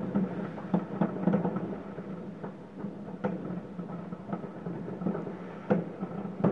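Distant fireworks: about a dozen scattered bangs and booms of firecrackers and aerial shells going off at irregular intervals, some with a short echo.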